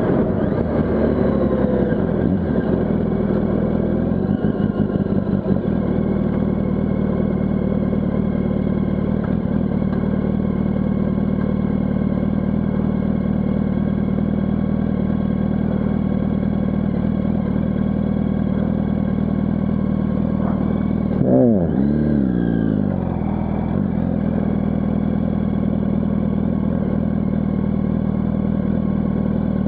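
Yamaha R1's inline-four engine idling steadily, with one brief rev that rises and falls about two-thirds of the way in.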